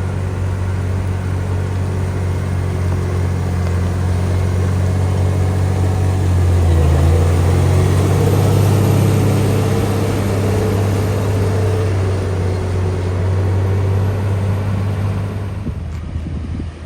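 Diesel engine of heavy earthmoving machinery running with a steady low hum. It gets louder through the middle and drops off near the end.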